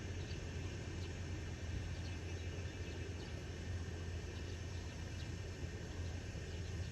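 Outdoor rural ambience by a rice paddy: a steady low rumble with faint, scattered high chirps.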